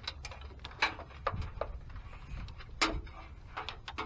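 Irregular short clicks and knocks of wiring-harness connectors and loose wires being handled, with one sharper click near the end, over a low steady hum.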